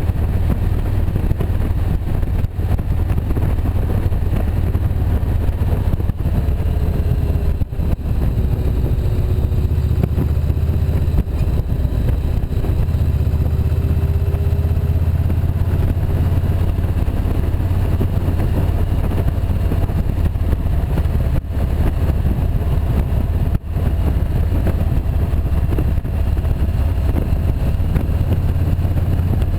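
Motorcycle riding along at a steady pace: the engine runs with a heavy, constant low rumble, and faint tones drift slightly in pitch.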